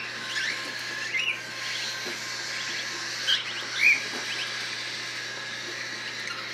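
Young cockatiels chirping: a few short, separate calls that rise and fall in pitch, the loudest two about three and four seconds in, over a steady low hum.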